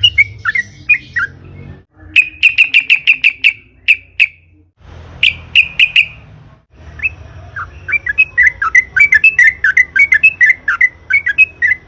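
Yellow-vented bulbul (trucukan) singing in fast bubbling strings of short notes. A long rapid run starts about 7 seconds in, after brief breaks near 2 and 5 seconds. A low steady hum runs underneath.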